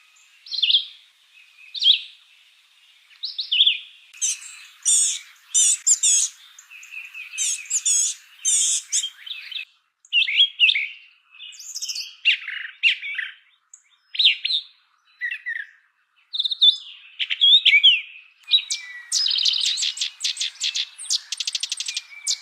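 Songbirds chirping and calling. Short, high chirps come about once a second at first; from about 4 s several birds call over one another, and near the end a fast, even trill sets in.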